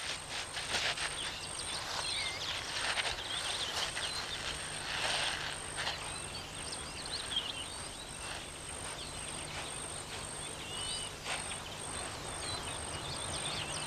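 African bush ambience: small birds chirping and twittering over a steady, evenly pulsing high insect note, with a few short sharp knocks or rustles in the first half.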